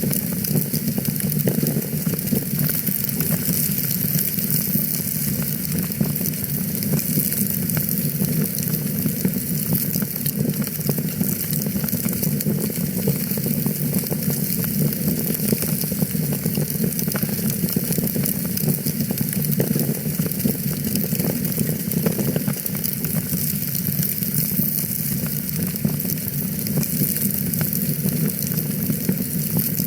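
Fireplace fire crackling steadily, with a dense run of small pops and snaps over a constant low rush and hiss of flame.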